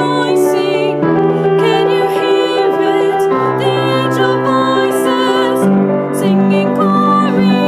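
A female voice singing a slow song with vibrato over instrumental accompaniment, whose low held chords change every second or two.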